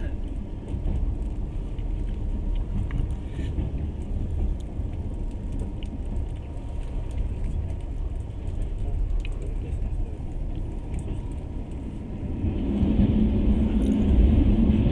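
Steady low rumble of a moving passenger train, heard from inside the carriage. It swells louder for a couple of seconds near the end.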